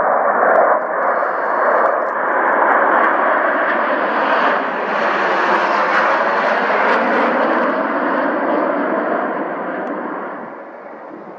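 Aircraft engine noise of a plane passing close by, loud and steady, brightening through the middle and fading away near the end.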